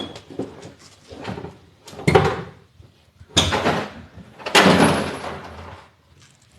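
A run of loud clunks and scrapes from hands-on work, with a longer scraping rattle of over a second about two thirds of the way in.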